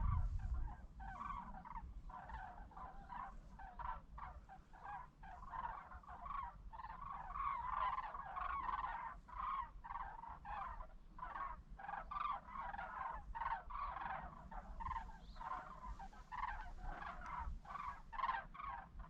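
A large flock of migrating birds calling, with many short overlapping calls going on continuously.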